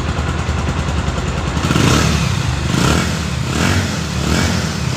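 A Bajaj Pulsar 150's single-cylinder engine running with the Pulsar's typical "dum-dum" exhaust beat, swelling and easing a few times. It sounds healthy.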